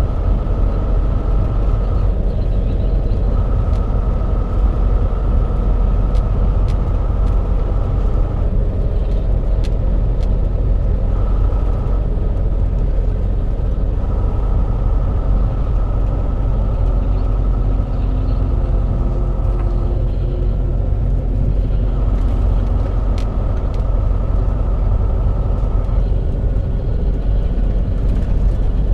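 Semi-truck driving on a winding road, heard inside the cab: a steady low engine and road rumble, with a high whine that comes and goes every few seconds.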